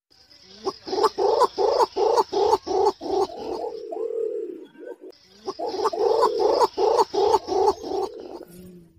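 Green imperial pigeon calling: a run of rapid, deep pulsed notes, about three a second, ending in a drawn-out lower note. After a short pause a second run follows.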